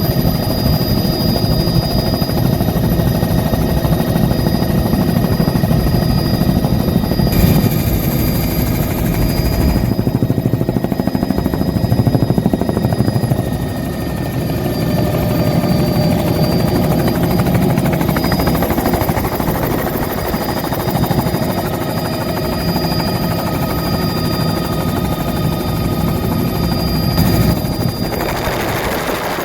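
Helicopter in flight: a steady, loud rotor and engine drone with a rapid low chop and constant high-pitched turbine whines.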